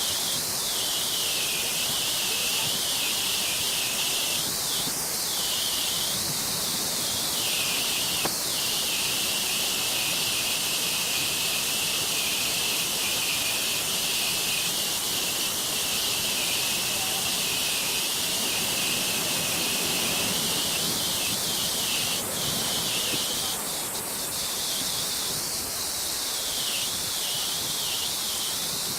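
Waterfall's rushing water: a steady, even roar of falling water.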